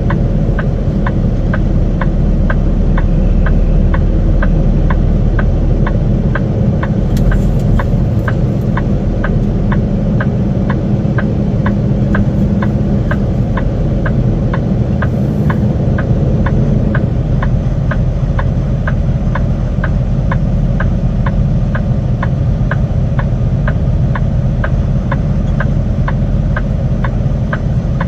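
Semi truck's diesel engine running steadily, with a light, regular clicking about twice a second over it.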